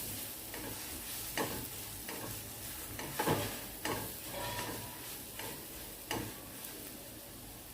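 Onion-tomato masala with ground spices frying in oil in a pan, sizzling softly, while a spatula stirs it and scrapes against the pan a few times.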